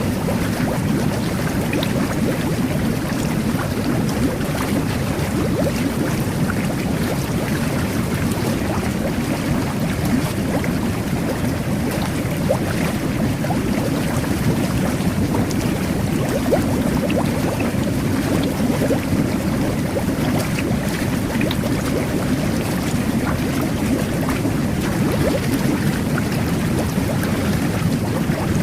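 Jet bath running: water churning and bubbling steadily from the jets, with many small pops of bursting bubbles.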